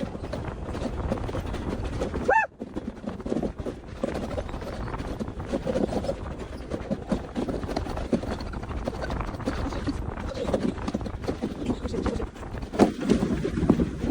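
Wind buffeting a phone microphone over the rumble of a mountain coaster cart running along its track, with a brief rising squeal about two seconds in.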